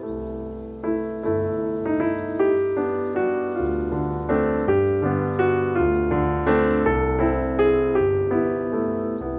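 A keyboard with a piano sound playing a slow melody of single notes over held bass notes, each note struck and then fading.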